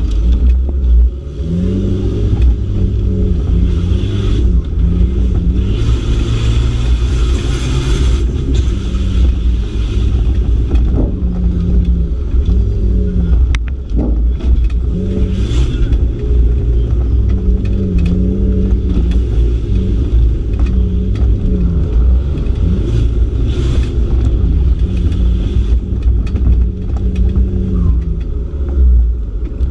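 Rally-trial car's engine heard from inside the cabin, revving up and falling back again and again as the car is driven hard over rough dirt. A sharp knock from the car's body comes about halfway through.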